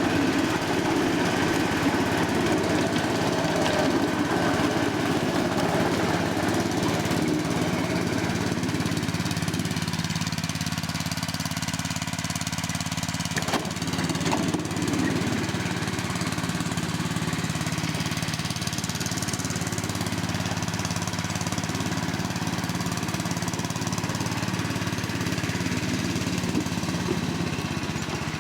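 A small engine running steadily with a low, even hum, and a single sharp click about halfway through.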